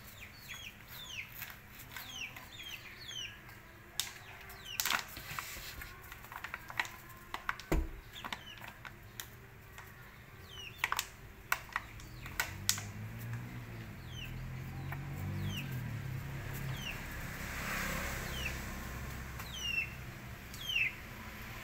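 Birds chirping off-screen: many short, high chirps that each slide down in pitch, repeated every half second or so, with a few light clicks. A low engine hum comes in about halfway through.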